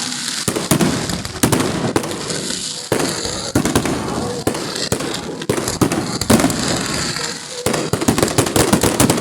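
Fireworks display: a continuous run of sharp bangs and crackling from exploding shells, with clusters of several quick reports close together.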